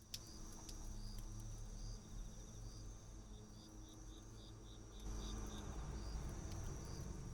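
Crickets chirping: a steady high trill with short chirps repeating at an even pace, and a quicker run of chirps in the middle. A few faint clicks sound over it, and a low rumble rises about five seconds in.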